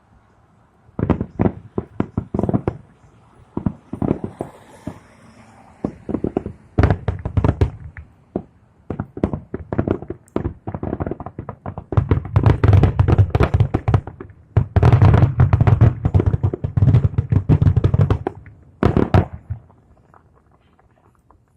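Aerial fireworks bursting: scattered loud bangs at first, then a dense barrage of overlapping bangs in the second half, ending with a last few shots about 19 seconds in.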